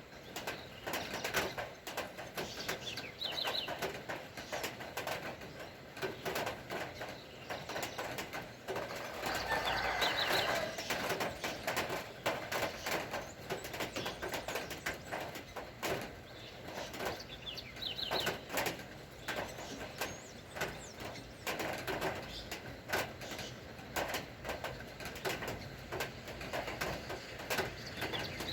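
Rain dripping and tapping in a dense, irregular patter, with birds chirping now and then. A louder, fuller sound rises for a couple of seconds about nine seconds in.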